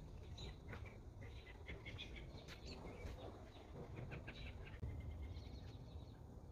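Small birds chirping, many short high calls scattered throughout, over a low rumble of wind and handling noise on the microphone.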